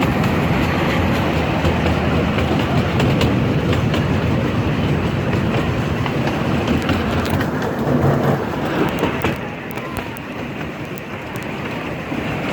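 Steam-hauled passenger train rolling along the track: a steady rumble from the cars, with scattered clicks of wheels over the rail joints. The noise drops somewhat about nine seconds in.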